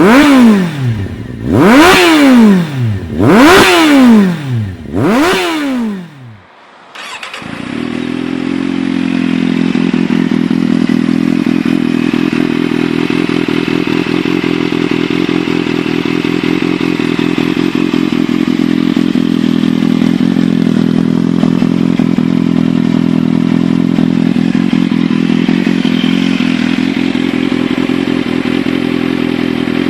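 Kawasaki motorcycle engine through an SC-Project aftermarket exhaust: four sharp throttle blips in the first six seconds, each rising and dropping quickly in pitch. After a short break it settles into a steady idle.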